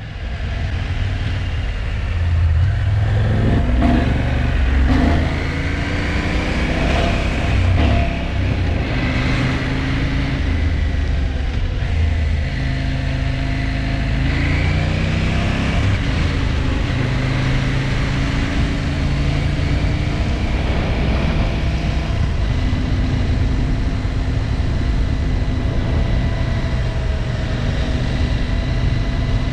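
KTM 790 Adventure R's parallel-twin engine running under way, its revs jumping up and down in steps for the first half and then holding steadier. The engine is hesitating with a fuel-starved stumble, which the owner later put down to a failed immobiliser that may have sent the bike into safe mode.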